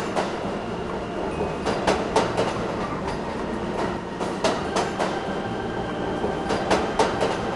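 A train running along the track: a steady rumble with sharp clacks of the wheels over rail joints, coming in clusters of two or three.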